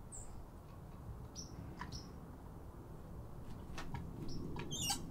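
Small birds chirping in short, high calls, with a quick trill of chirps near the end. A few light clicks and taps come from the cleaver being settled into the sharpener's clamp.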